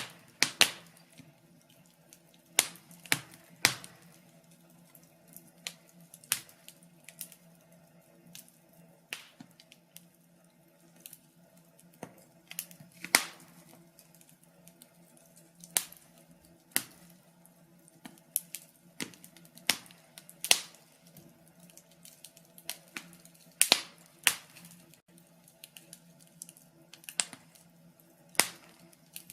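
Wood fire crackling, with irregular sharp pops and snaps, a few louder than the rest, over a faint steady low hum.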